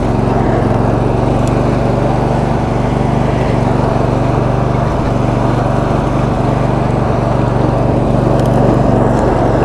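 Roper lawn tractor's 22 hp V-twin engine running steadily as the tractor drives along, a constant hum with no change in pitch.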